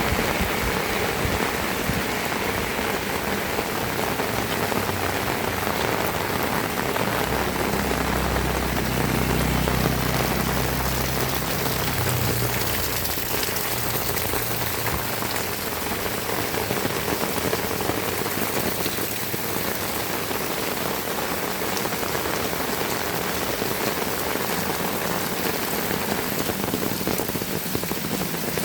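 Heavy rain falling in a steady, dense hiss. A low rumble swells and fades about a third of the way through.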